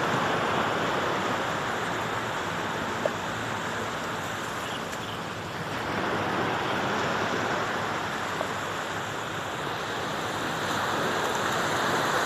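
Sea waves washing ashore: a steady rushing surge that swells about six seconds in and again near the end.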